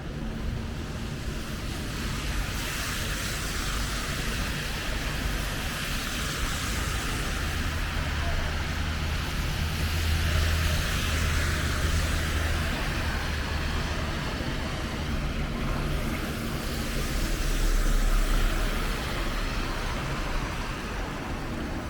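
City street traffic on snowy, wet roads: a steady hiss of tyres with the low rumble of engines passing, one swelling about halfway through and another near the end.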